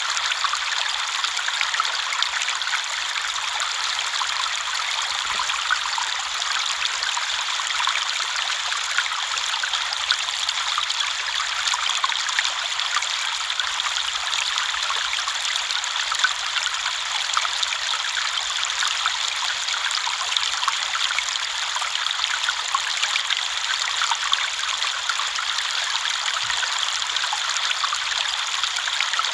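River water flowing and splashing over rocks in a steady, even rush, with a fine patter of small splashes through it.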